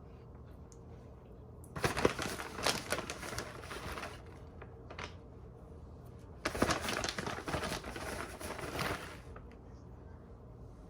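Plastic bag of shredded cheese crinkling in two bursts of a few seconds each, as cheese is shaken out onto the layer.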